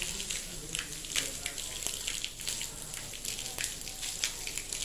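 Falling volcanic ash rain pattering: a steady hiss with many irregular sharp ticks.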